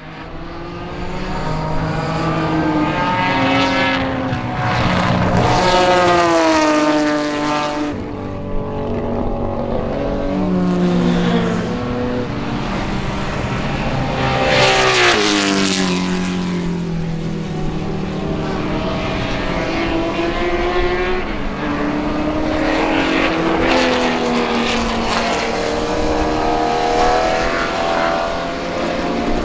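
Ferrari 250-series V12 race engines at racing speed, their pitch climbing under acceleration and stepping down at gear changes and braking. The sound swells loudest as cars pass close, about five and fifteen seconds in.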